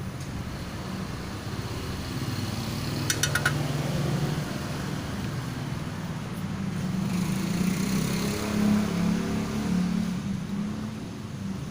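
A motor vehicle engine running, its hum swelling louder toward the end, with a quick run of four sharp metallic clicks about three seconds in.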